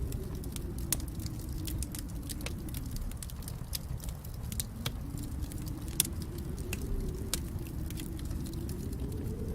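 Wood fire in a fireplace crackling: irregular sharp pops and snaps, the loudest about a second in and again around six seconds in, over a steady low rumble of burning flames.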